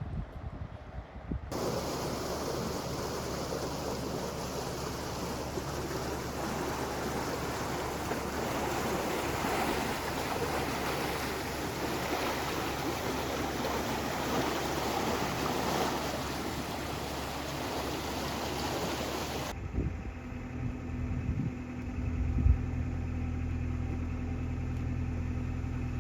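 A steady rushing noise, like water or wind, which stops abruptly a few seconds before the end. It gives way to the low, steady hum of a narrowboat's diesel engine, with one sharp knock partway through.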